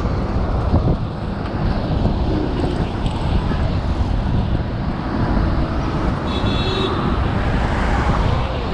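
Wind buffeting the microphone of a camera riding on a road bike at about 35 km/h, a steady rushing noise with tyre and road noise and passing traffic.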